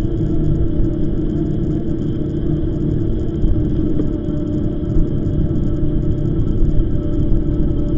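E-bike riding along at a steady pace: a continuous low rumble of tyres and wind, with a constant steady hum.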